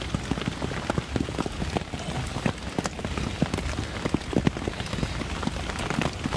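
Rain falling on a lavvu tent's flysheet, heard from inside the tent: a steady hiss with many irregular drop hits.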